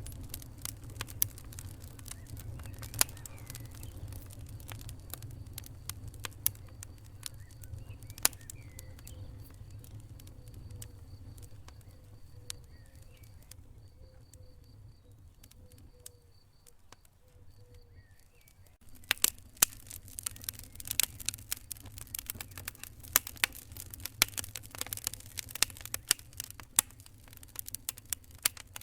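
Fire crackling, with sharp pops over a low steady rumble. The pops are sparse at first, die down about halfway through, then come thick and fast from about two-thirds of the way in.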